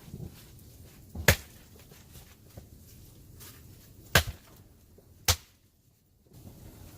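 Three sharp cracks of firewood: sticks being snapped by hand for a campfire, the first about a second in and the other two close together near the end.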